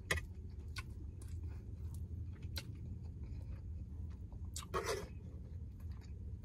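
Close-miked chewing of roasted Brussels sprouts, with small clicks of a fork against the plate and a louder crunchy burst about five seconds in, over a steady low hum.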